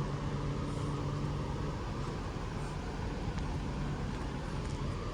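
Class 390 Pendolino electric train standing at the platform, giving a steady low hum.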